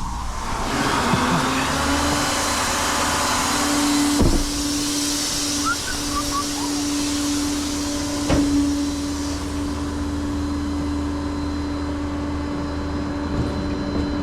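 Hydraulic pump of a flatbed tow truck whining at a steady pitch as the bed is lowered, over a hiss that fades out over the first nine seconds or so. Two sharp clunks come about four and eight seconds in.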